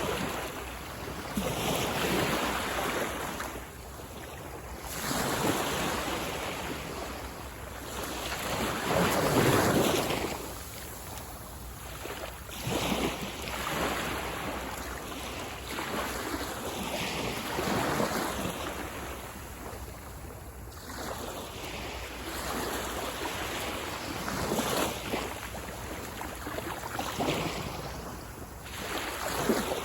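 Small sea waves breaking and washing up a beach, each surge of surf swelling and fading every few seconds, the strongest about ten seconds in. Wind rumbles on the microphone.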